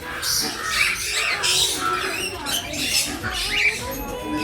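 Many birds chattering and squawking together, a dense run of short, high, overlapping calls.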